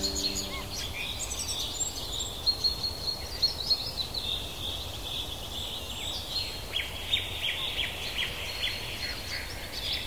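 Several small songbirds chirping and twittering in high-pitched calls, with a quick run of sharp chips about two-thirds of the way through, over a steady background hiss.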